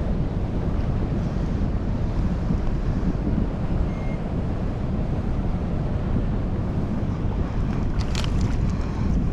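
Wind buffeting the microphone, a steady low rumble, with a few sharp clicks near the end.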